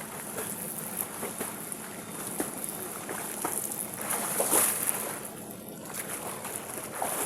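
Water splashing and sloshing around a person moving and dipping in shallow open water: scattered small splashes, with a louder surge of water about four and a half seconds in.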